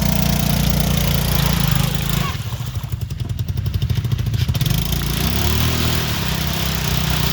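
An off-road vehicle's engine running on the trail, with a short rise and fall in revs about five seconds in.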